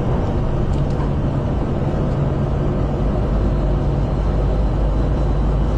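Steady cockpit noise of an airliner in its initial climb at takeoff thrust: a continuous rush of airflow and engine noise over a low steady hum.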